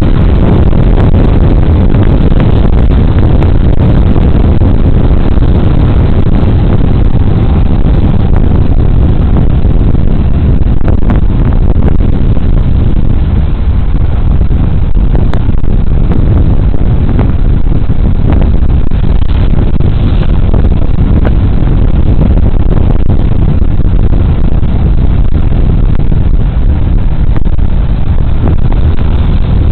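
Riding noise from a Suzuki Burgman Street 125 scooter on the move, picked up by a bodycam's microphone: a loud, steady rush of wind and road noise with the engine underneath.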